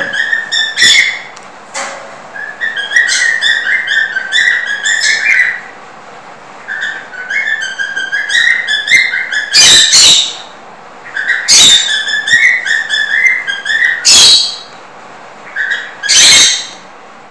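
A bird chirping in runs of short warbled notes, broken by several loud, harsh calls.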